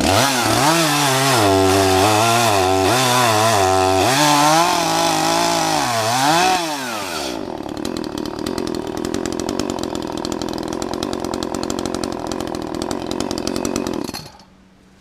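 Chainsaw engine revving up and down over and over for about seven seconds, then settling into a steady idle, then shut off about a second before the end.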